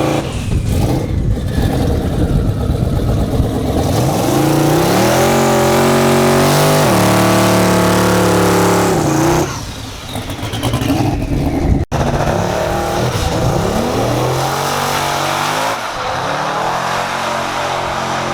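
Drag-racing car engine accelerating hard at full throttle, its note climbing in steps through the gears before dropping away about halfway through; a second run of rising engine note follows.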